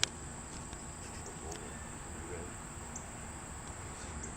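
Steady high-pitched insect drone, with a sharp click right at the start and a few faint ticks.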